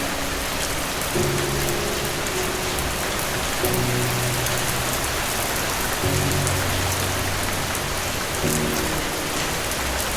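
Steady, heavy rain hiss with soft, low music notes over it, a new chord about every two and a half seconds.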